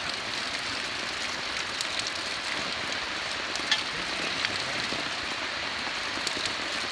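Steady rain falling, with a few sharper drop ticks standing out.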